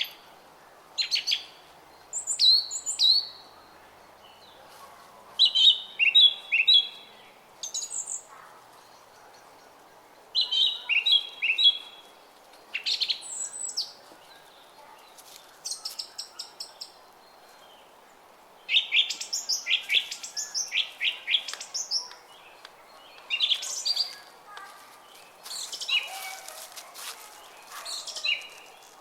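Small songbirds chirping in short, rapid phrases every couple of seconds, over the steady babble of a brook.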